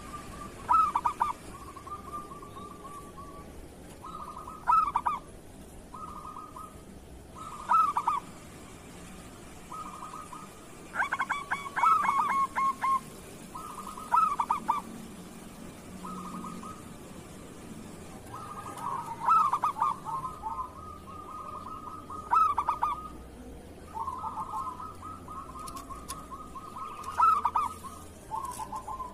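Zebra doves (perkutut) cooing: repeated phrases of quick, staccato trilled coos. A burst of song comes every two or three seconds, and the longer phrases run together after about 18 seconds.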